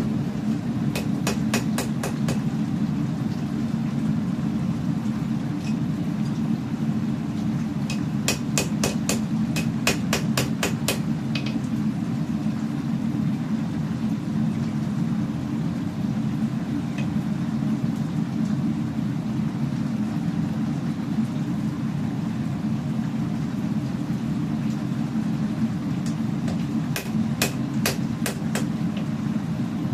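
Hammer blows on steel during forging, in three quick runs: about six strikes near the start, about ten around the first third, and about six near the end. A steady low rumble runs underneath.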